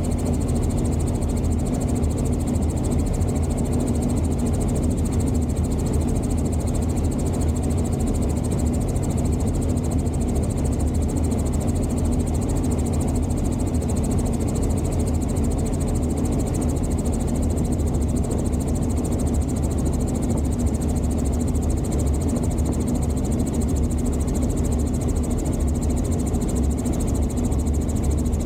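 Helicopter in flight, its rotor and turbine engine making a steady, unchanging low drone.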